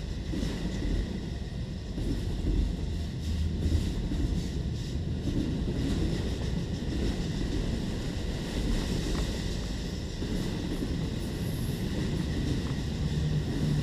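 Freight train of autorack cars rolling past: a steady rumble of steel wheels on the rails, with wind on the microphone.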